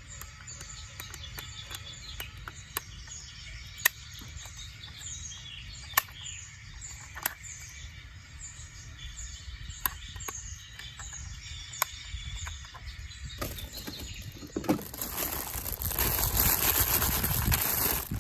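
Birds chirping in short, repeated falling notes, with scattered sharp clicks over a low rumble. From about 14 seconds a much louder crunching, scraping noise takes over.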